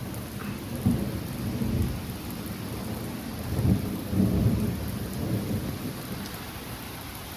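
Thunder rumbling over steady rain, swelling about a second in and again around the middle.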